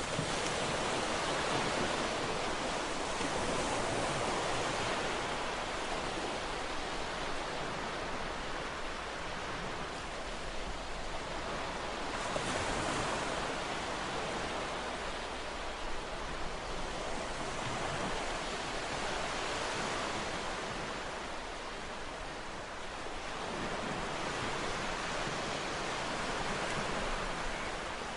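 Ocean waves breaking and washing on a shore, a steady rushing surf that swells and ebbs every few seconds.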